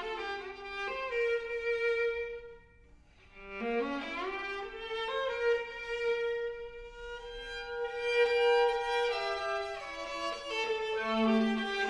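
Viola playing slow, sustained bowed notes, with a short break about three seconds in followed by a slide up into a long held note.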